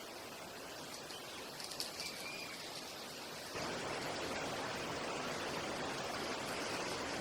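Nature soundtrack of steady rushing water noise with a few brief high bird chirps about two seconds in. The water noise gets suddenly louder and fuller about three and a half seconds in.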